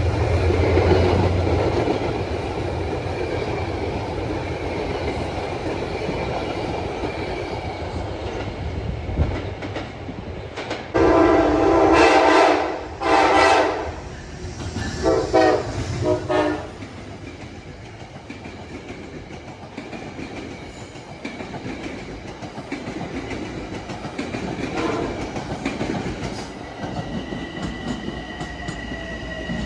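Metro-North commuter train running on the rails with a steady rumble and rail clatter. About eleven seconds in, its horn sounds two long blasts followed by a few shorter ones. Near the end there is a steady high-pitched squeal of wheels on the rails.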